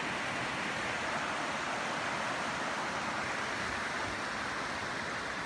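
Steady rushing of fast-flowing river water and falls, an even hiss with no breaks.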